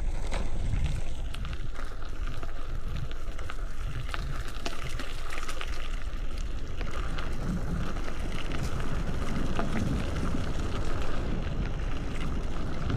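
Mountain bike riding over a dirt trail: wind buffeting the microphone over a steady tyre rumble, with many small clicks and rattles.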